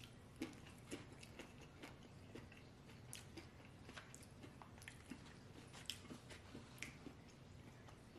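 A person chewing a mouthful of food, faint and close, with short crisp clicks about twice a second.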